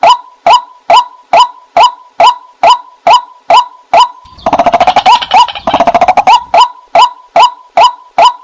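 White-breasted waterhen calls played as a decoy lure: a sharp pitched note repeated about two and a half times a second. About halfway through it is broken for some two seconds by a fast rattling chatter.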